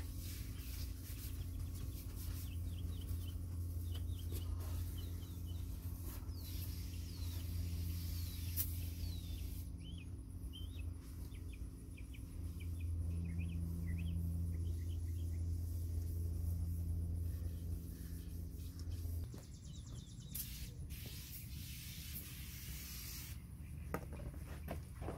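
Outdoor ambience of birds chirping, with a steady low hum underneath that cuts off about nineteen seconds in.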